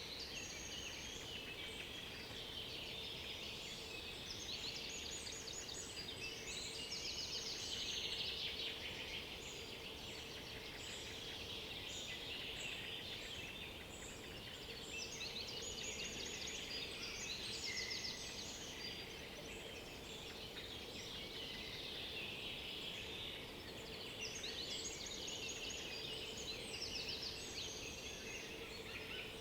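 A chorus of several songbirds singing at once, with overlapping chirps and trills, over a faint steady low hum.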